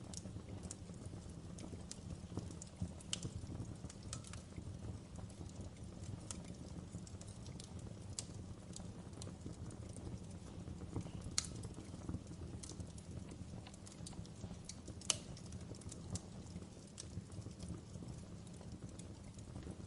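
Wood fire crackling: a steady low rumble of the burning with scattered sharp pops and snaps, the loudest a few seconds in, near the middle and about three quarters through.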